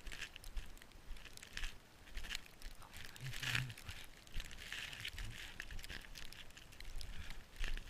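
Irregular crunching and crinkling in deep snow, in uneven bursts with scattered clicks.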